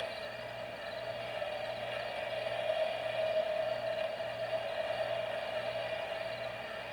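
A steady mechanical hum with a constant pitch, growing a little louder toward the middle and easing off again.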